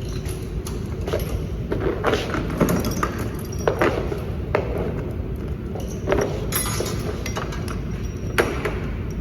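Scattered sharp knocks and clinks, about eight of them at uneven intervals, over a steady low background rumble.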